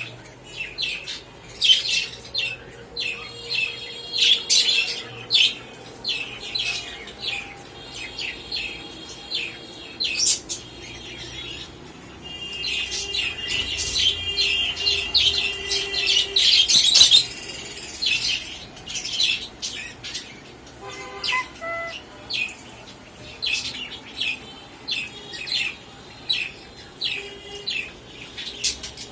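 Many birds chirping, with a steady run of short, sharp calls and a denser stretch of overlapping chatter about halfway through.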